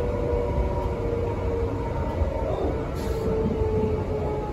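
Inside a Transperth A-series electric train (Bombardier/Walkers build) running on the line: a steady low rumble of the wheels on the track with a thin electric whine over it. The whine dips slightly in pitch in the second half as the train slows.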